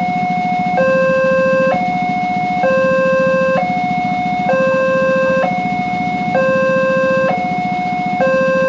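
Railway level-crossing warning alarm: two electronic tones alternating low and high, each held a little under a second, repeating steadily, with a low hum underneath.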